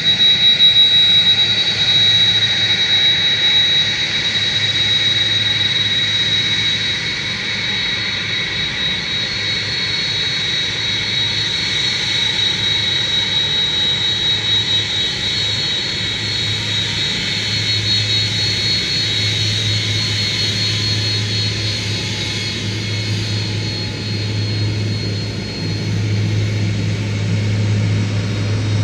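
Large jet aircraft's turbofan engines running steadily, with a high-pitched whine that is strongest early on and fades in the second half, while a low hum grows stronger near the end.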